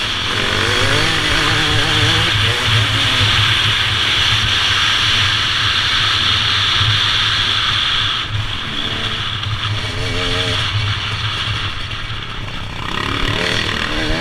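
Motorcycle engine running under way, its pitch rising and falling several times as the throttle is worked. The engine note eases a little about eight seconds in.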